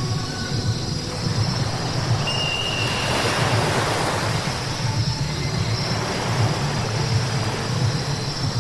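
Car driving on a wet road: a steady low road rumble with tyre hiss over it, swelling louder for a moment about three seconds in, with a brief high whine just before.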